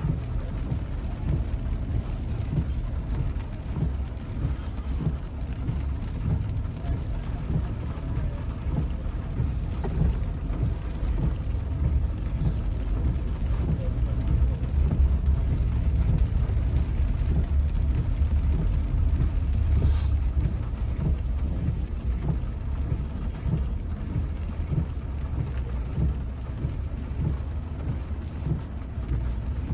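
Steady low rumble of a car driving, heard from inside the cabin, with faint light ticks about once a second.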